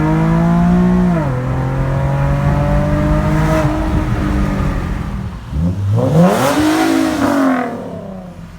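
Infiniti G37 sedan's 3.7-litre V6 through a custom true dual exhaust with X-pipe and resonators, accelerating hard with an upshift about a second in, pulling on until the driver lifts off. About six seconds in comes a quick rev that climbs and falls back, and the sound then fades.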